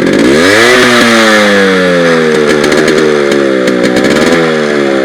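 Modified Yamaha RX100's two-stroke single-cylinder engine revved, its exhaust note rising in the first second and then slowly falling as the revs drop, followed by a few quick throttle blips near the end.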